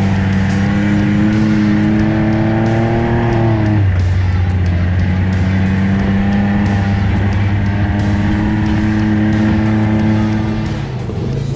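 Side-by-side UTV engine pulling under throttle on a trail, its pitch slowly climbing, dropping sharply about four seconds in, then holding steady before easing off near the end.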